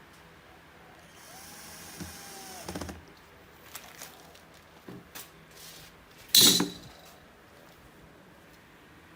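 A power drill runs for about two seconds, starting about a second in, then several clicks and knocks of tool and parts handling, the loudest a sharp knock a little over six seconds in.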